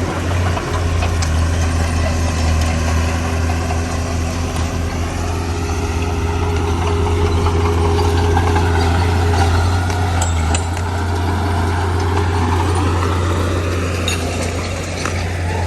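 Heavy diesel engine of earthmoving equipment running steadily with a deep hum, its note swelling and easing a little in the middle. A few light clicks near the end.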